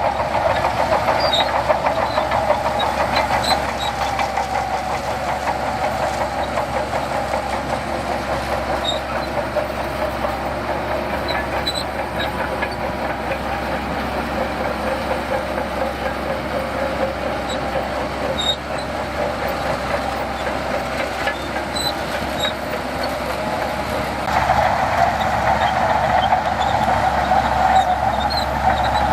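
Heavy earth-moving machinery working, its diesel engine running steadily with a rumbling clatter. It grows louder about 24 seconds in.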